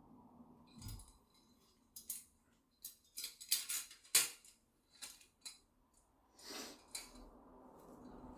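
Craft items being handled and moved on a work surface: a run of irregular sharp clicks and clinks, loudest near the middle, then a short rushing noise.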